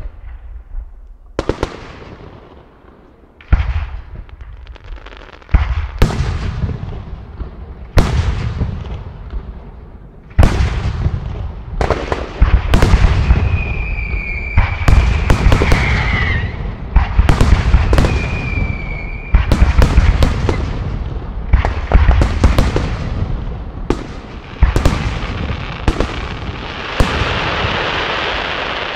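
Aerial firework shells, mostly 75 mm, bursting in a long series of sharp booms. They come a second or two apart at first and thick and fast from about ten seconds in. Two whistling tones sound through the middle, and a sustained hiss rises near the end.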